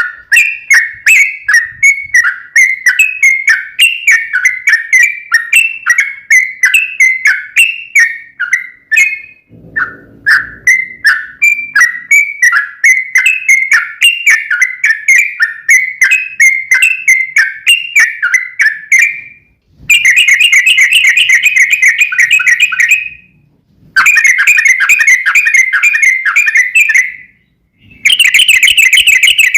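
Yellow-vented bulbul (trucukan) singing a long chattering run of quick, repeated notes, several a second. About two-thirds of the way through it changes to three bursts of a much faster, denser trill, each a few seconds long, with short pauses between them.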